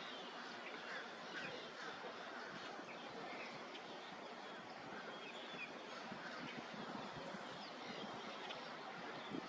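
Faint outdoor ambience with many short, scattered bird chirps over a steady background hiss.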